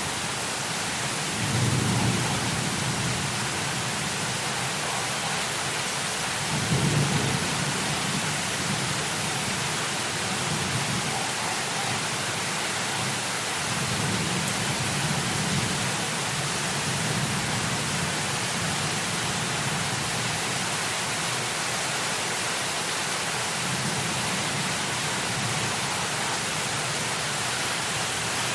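Heavy rain falling as a steady hiss, with low rolling thunder rumbles swelling and fading, the loudest about two seconds in and again about seven seconds in.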